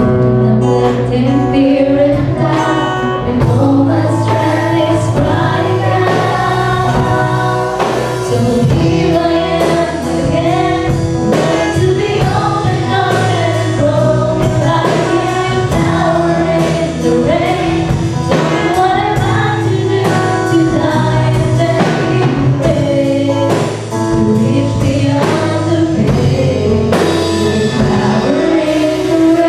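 A song: singing voices carry a melody over instrumental accompaniment with a regular beat.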